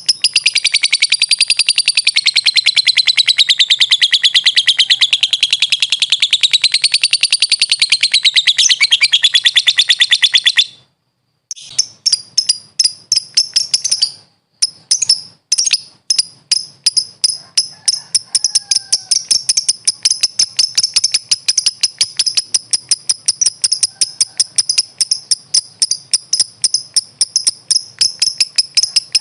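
Lovebird giving a long, unbroken, fast chattering trill for about ten seconds. After a brief break it switches to a quick series of short, sharp high chips.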